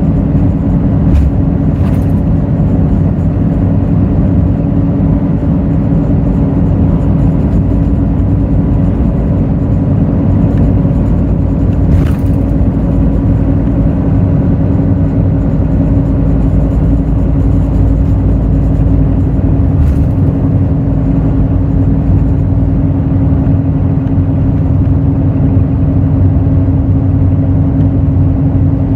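Hino J08E-VD inline-six diesel engine of a Hino RN8JSVU intercity bus running at a steady pitch, heard from on board, with a few brief knocks or rattles.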